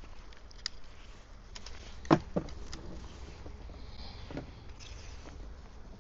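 A few light clicks and knocks from fishing tackle being handled, the loudest a sharp knock about two seconds in followed quickly by a second, over a steady low rumble.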